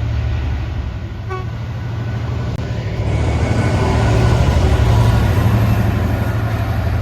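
Class 66 diesel locomotive with its two-stroke V12 engine, hauling a freight train through the station. Its low engine drone runs steadily, and the noise of the train grows louder from about three seconds in as the wagons pass.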